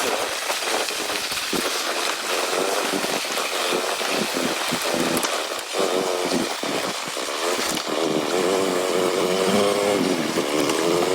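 Motorcycle engine running while riding, its buzzing note wavering up and down in pitch, over a steady rush of wind noise.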